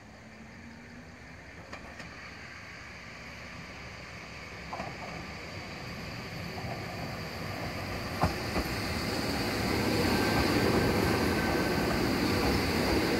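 Ohmi Railway electric train approaching and running past close by, its running noise growing steadily louder over the first ten seconds and then holding. A few sharp clacks from the wheels come through, the loudest about eight seconds in.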